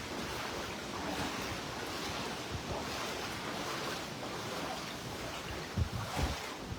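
Hurricane Helene's wind and storm-surge floodwater making a steady rushing noise, with low gusts buffeting the microphone near the end.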